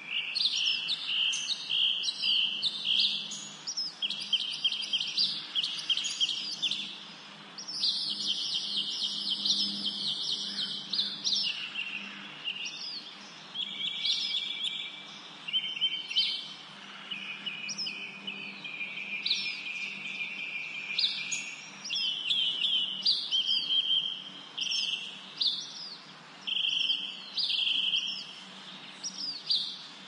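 Songbirds singing and chirping without pause, a dense chorus of rapid trills and quickly repeated high notes.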